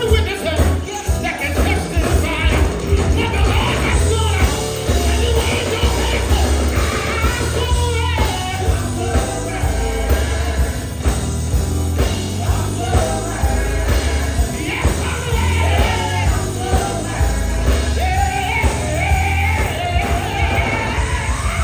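Live gospel band playing with a steady beat and heavy bass, and a wavering melodic lead line over it.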